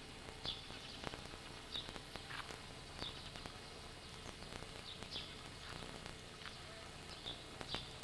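Birds chirping faintly in an outdoor ambience: short high chirps at irregular intervals of a second or two, with a few soft clicks.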